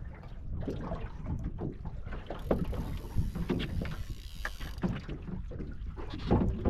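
Wind buffeting the microphone and water slapping against a drifting boat's hull, with scattered small knocks and clicks.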